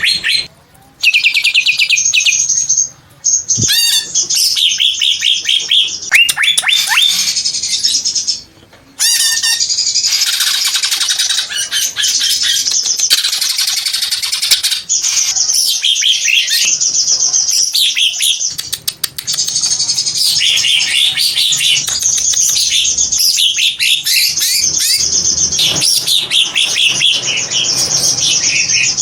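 Green cucak (greater green leafbird) singing a long, fast, high run of trills, chirps and whistled sweeps. It breaks off briefly a few times early on, then sings almost without stopping.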